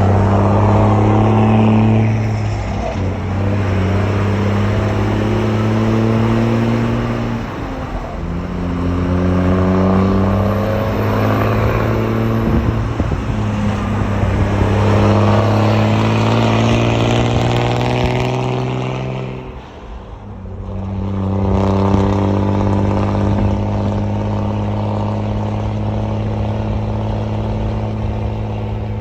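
VW Constellation bitruck truck's diesel engine running loud, its note rising and falling as it pulls. There is a brief drop about eight seconds in and a deeper dip about twenty seconds in before it picks up again.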